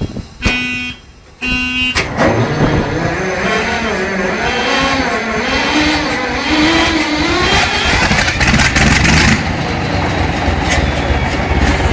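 Two short beeps, then a large diesel engine running loudly. Its pitch wavers and rises for a few seconds, then it settles into a steady low rumble, with a burst of hiss about eight seconds in.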